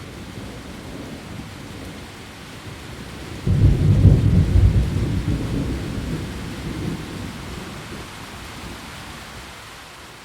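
Heavy rain falling steadily on leaves, with a roll of thunder that breaks in sharply about three and a half seconds in and rumbles away over the following several seconds.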